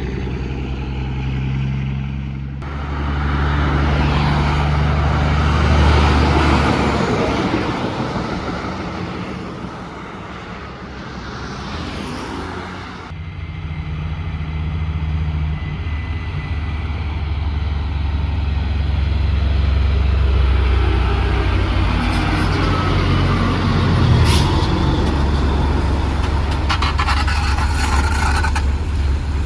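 Heavy diesel trucks running and passing, their engine rumble rising and falling. A hiss cuts off suddenly about halfway through.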